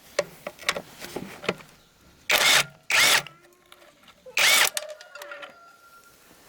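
Metal-on-metal workshop sounds from working on an old diesel engine: a few sharp clicks, then three short loud scrapes, each followed by a faint brief ring of the metal.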